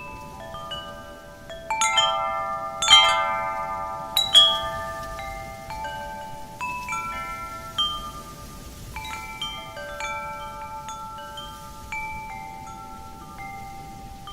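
Wind chimes ringing as they are blown about, with overlapping tones that each ring on for a second or more. A burst of strikes from about two to four and a half seconds in is the loudest, then the strikes thin out.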